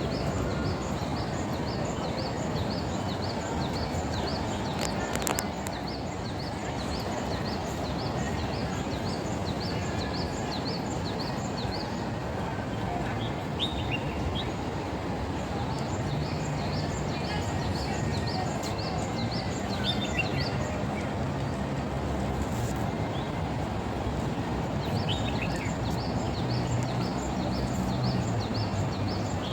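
A songbird calls in quick, high, repeated chirps, about two a second, against a steady background rush. The chirping thins out after about twelve seconds, and a low hum comes in during the second half.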